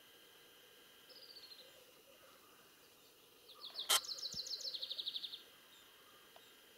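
Songbird singing: a short descending run of high notes about a second in, then a louder, longer trill of quick repeated notes that steps down in pitch, from about three and a half to five and a half seconds in. A single sharp click near the start of the trill is the loudest sound.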